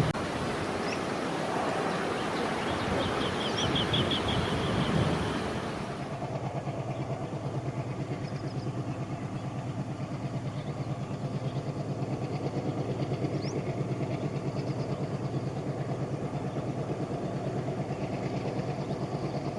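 A fading rumble with wind noise and a short bird trill, then, about six seconds in, an ALCo WDM-3D diesel locomotive's engine running with a steady, rapid, even throb.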